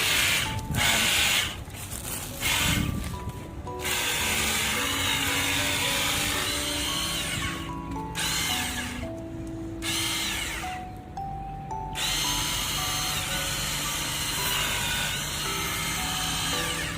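Rechargeable portable pressure washer's electric pump running and spraying in stretches, cutting out a few times, the longest for about two seconds past the middle. Background music with held notes plays underneath.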